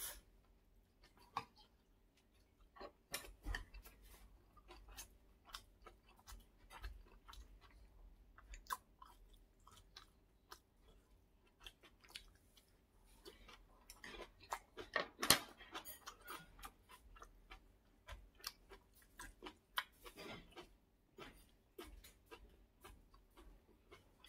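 Close-up chewing and mouth sounds of a man eating omurice and kimchi: soft, irregular smacks and small clicks, busiest a little past the middle.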